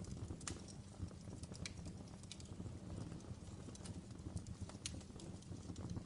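Wood fire crackling in a fireplace: irregular sharp pops and snaps, several a second, over a low steady rumble of flame.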